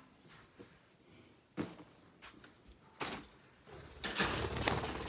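Handling noise as something is moved and set down: a knock, a sharper knock a little over a second later, then about a second of rustling and scraping near the end.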